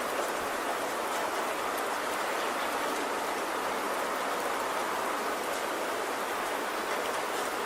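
Steady rainfall: an even hiss with faint ticks of individual drops.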